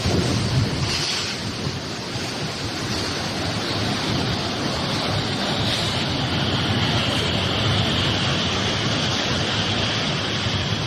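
Strong storm wind blowing hard across the microphone: a steady, loud rush of noise with no let-up.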